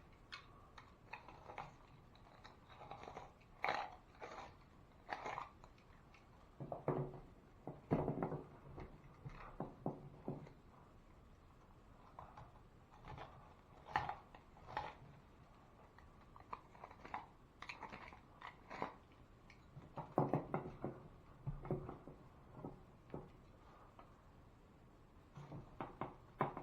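Hand tools working on drywall: irregular crunching scrapes and clicks, in short uneven bursts with pauses between.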